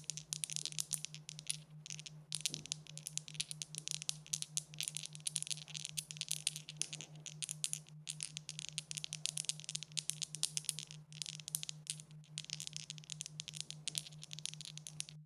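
Dice rattling in rapid, dense clicks that go on with only a few short pauses, over a steady low hum.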